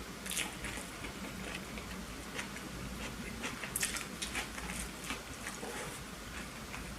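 Close-miked chewing of a burger: scattered short wet mouth clicks and smacks, loudest near the start and again about four seconds in.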